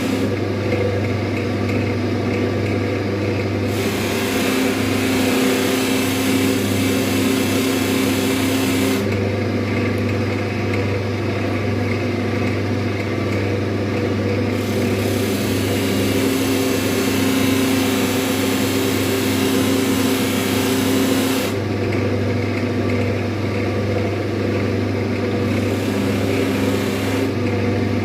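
Electric buffing wheel running with a steady motor hum while a chisel is pressed against the compound-charged buff. The pressing comes in three spells of a few seconds each, each adding a hiss over the hum, with pauses between as the edge is sharpened and cooled in turn.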